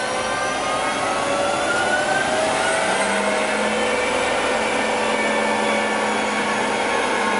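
Military vehicle's engine running steadily: a constant rush with whining tones that slowly rise and drift in pitch, and a low hum joining about three seconds in.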